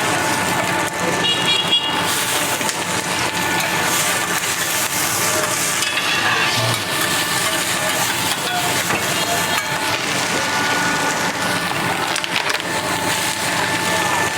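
Stir-frying on a hot iron teppanyaki griddle: a steady sizzle with occasional knocks, over the running of the stall's exhaust hood and fans.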